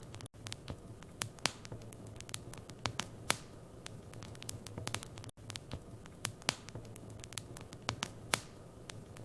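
Wood fire crackling in a fireplace: irregular sharp snaps and pops, several a second, over a steady low hum of the burning.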